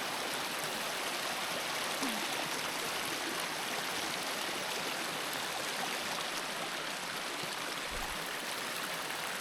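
Kanarra Creek rushing steadily over rocks: a constant, even wash of running water.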